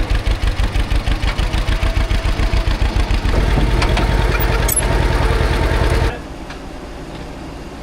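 John Deere 530 tractor's two-cylinder engine running with an even, pulsing beat. About three seconds in it grows louder and steadier. About six seconds in it drops off sharply to a much lower level.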